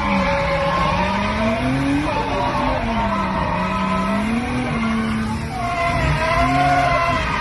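Turbocharged BMW M50 straight-six in an E36 with a straight-pipe exhaust, its revs rising and falling in slow swells.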